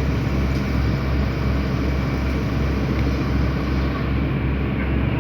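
Engine running steadily, a low even hum with a slight rhythmic throb.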